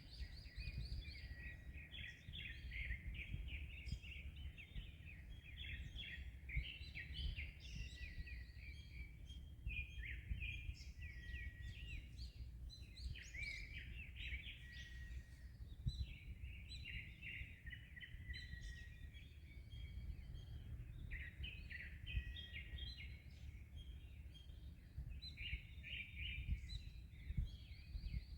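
A chorus of small birds singing and chirping without pause, many quick overlapping trills and calls. Underneath is a steady low rumble of wind and surf.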